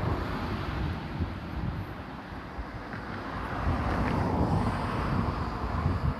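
Yodo Line diesel train running, a steady rushing rumble that swells about four seconds in, with wind buffeting the microphone.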